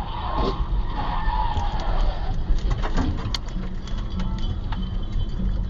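Car tyres skidding with a squeal over low road and engine rumble, then a cluster of sharp knocks and cracks about three seconds in.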